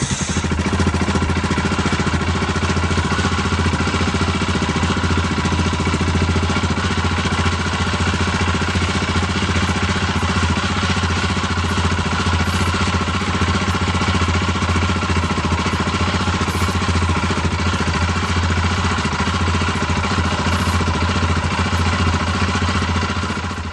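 Yamaha XT660Z Ténéré's single-cylinder engine idling steadily just after being started, left running to warm up.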